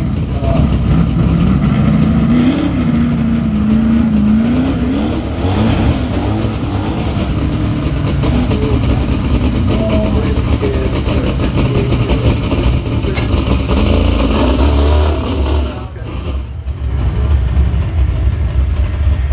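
Car engine revving and then accelerating hard from a standing start, its pitch climbing several times as it shifts up through the gears before fading into the distance. Near the end, a deep low rumble from another car's engine.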